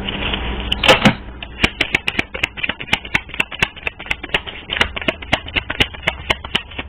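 Rapid, fairly even light clicking, about five clicks a second, with a louder rustling burst about a second in.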